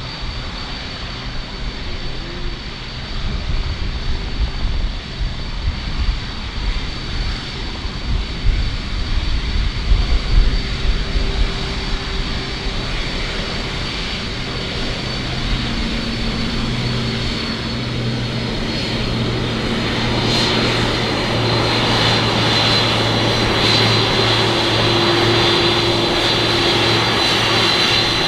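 Aircraft engines running with a steady high whine and a low hum, growing louder through the second half as the plane comes closer. A low rumble comes and goes in the first half.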